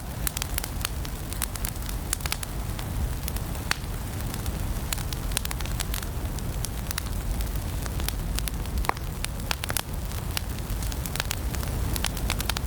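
Wood fire burning in a fireplace: irregular sharp crackles and pops over a steady low rush of the flames.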